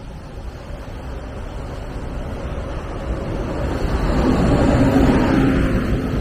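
A train approaching and passing by the trackside, its running noise building to a peak about five seconds in, with a steady low hum setting in shortly before the peak.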